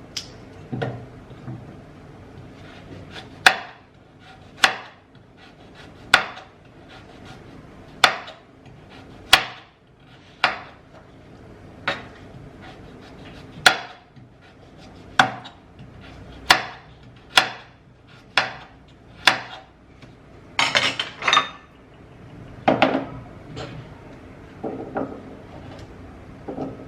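Knife chopping a carrot into pieces on a cutting board: separate sharp knocks roughly once a second, each blade stroke going through the carrot and striking the board.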